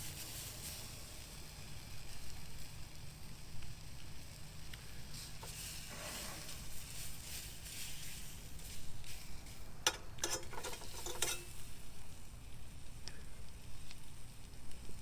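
Food sizzling and frying in a stainless steel pan, with a cluster of sharp crackles and pops about ten seconds in.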